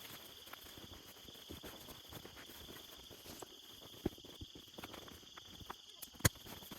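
Crickets chirping in a steady, continuous chorus, with two sharp knocks, about four and six seconds in.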